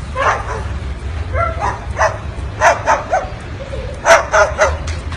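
A run of short yapping barks, about nine in a row at uneven spacing, over a steady low hum.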